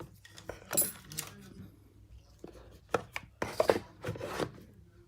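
Small hard objects clicking and clattering on a work surface, a few sharp taps and rattles: tools and phone parts being handled during a phone screen repair.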